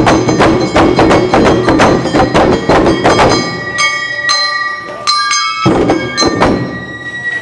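Awa Odori festival band playing: rapid drum strikes until about three seconds in, then sparser ringing metal bell strikes, with a last short flurry of drum hits near the end as the piece closes.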